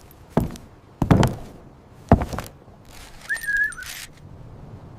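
Three thuds, each about a second apart, then a short, slightly wavering whistle about three seconds in.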